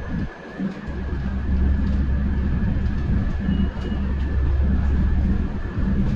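Electric RTD A Line commuter train running, heard from inside the car: a steady low rumble with a faint steady high whine over it. The rumble drops briefly about half a second in.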